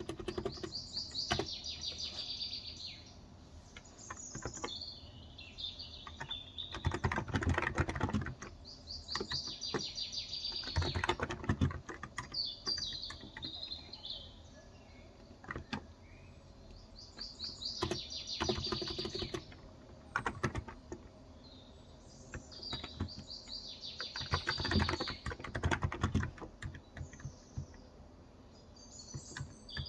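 Keys clicking on a Cox Endeavour electro-capacitive (Topre-style) tenkeyless keyboard with light 35 g switches, typed in uneven runs. A bird sings short high trills every few seconds over the typing.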